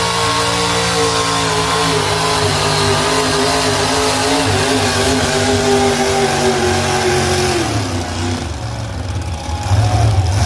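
Competition pulling tractor's engine running hard under load, its pitch sagging slowly as the revs are pulled down. Near the end the revs fall away sharply.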